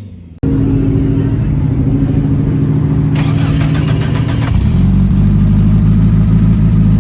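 Modified turbocharged car engine idling after a cold start: it comes in abruptly about half a second in, holds a steady idle, and about four and a half seconds in steps up to a fuller, louder idle.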